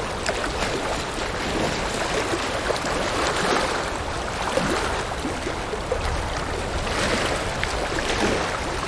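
River water flowing steadily over rocks, a constant rushing with small splashes and gurgles throughout.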